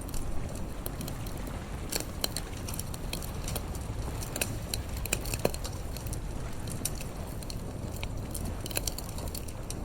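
Campfire crackling, with irregular sharp pops and snaps scattered throughout, a louder pop about five and a half seconds in, over a low steady rumble.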